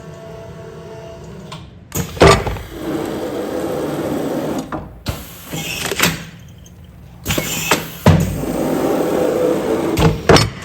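Commercial food-container sealing machine working through repeated sealing cycles: sharp mechanical clacks several times, with a steady motor hum in the stretches between.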